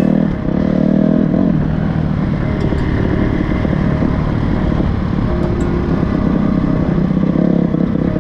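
Honda CRF250R's four-stroke single-cylinder engine running under throttle, revving higher for the first second and a half, then dropping back to a steadier, lower pitch.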